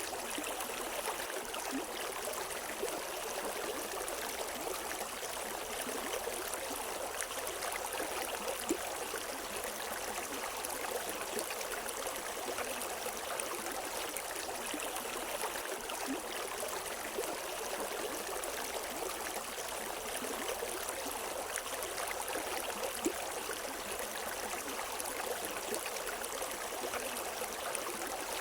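River water running steadily over rocks, a continuous rushing with small trickles and gurgles and no birdsong.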